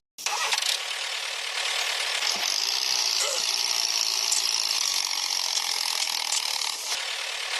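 A small geared motor of a miniature model machine running steadily, its gears making a continuous mechanical whir.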